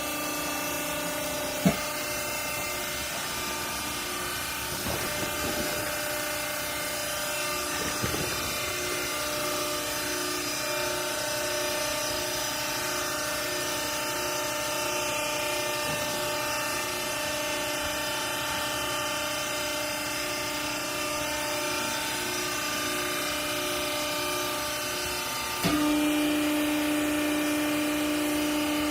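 Hydraulic clothing baler's electric motor and pump running with a steady hum, with a sharp click about two seconds in. Near the end the hum suddenly steps up louder and stronger, as the hydraulics come under load.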